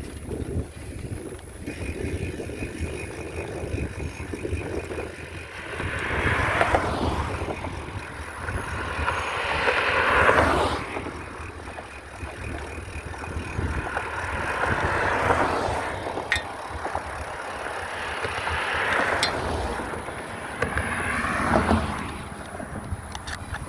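Noise of a bicycle ride: a steady low rumble with about five swells of louder noise that rise and fade.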